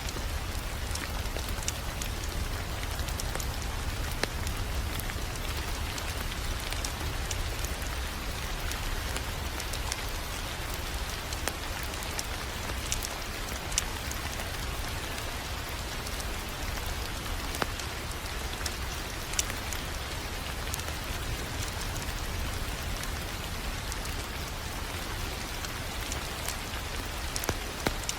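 Wood fire crackling steadily in a fireplace, with sharp pops every few seconds over a low rumble.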